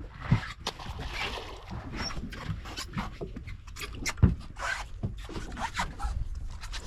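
Fishing boat at sea: a steady low rumble with scattered knocks and clicks of handling on deck, and one louder thump about four seconds in.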